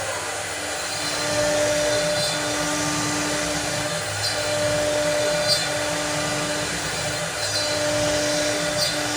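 CNC cutting machine running: a steady hiss with a low hum that starts and stops every second or two, and a few faint clicks.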